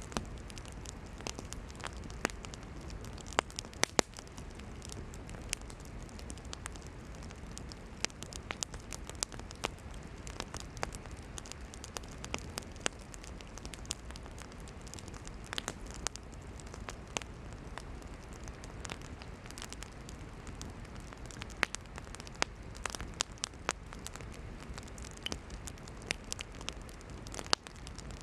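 Wood campfire burning: a steady low rush of flames with frequent sharp, irregular crackles and pops from the firewood, a few of them much louder than the rest.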